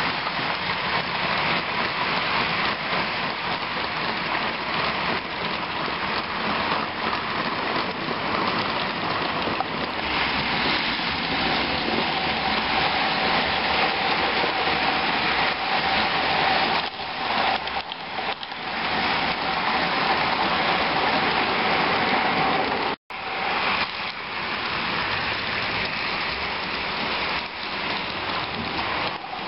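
H0 model trains running on track: a steady rushing noise of wheels on rail, with a faint steady motor whine through the middle. The sound drops out abruptly for a moment about 23 seconds in.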